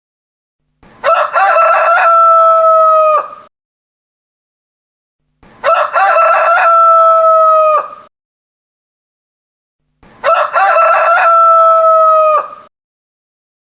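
Rooster crowing: the same cock-a-doodle-doo repeated three times, about four and a half seconds apart, each crow about two and a half seconds long and ending in a long held note, with dead silence between.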